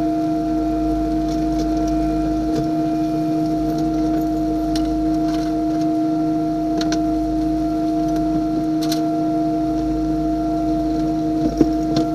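Steady machine whine from the trawler's deck or engine machinery, holding one pitch, with scattered light clicks and knocks and a sharper knock near the end.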